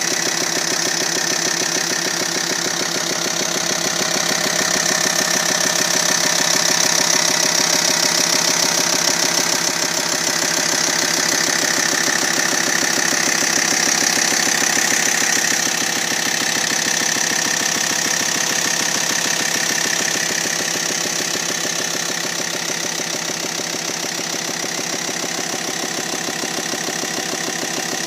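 A T5's engine running steadily with a fast, even pulse and a high-pitched whine over it. The owner takes it for an abnormal engine noise.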